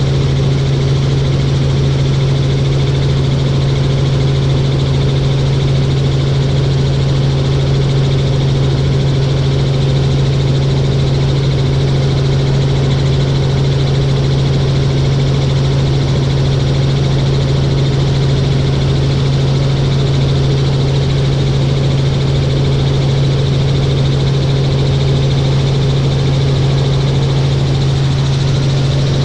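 A helicopter in flight, heard from on board: a loud, unchanging drone of engine and rotors with a strong steady low hum.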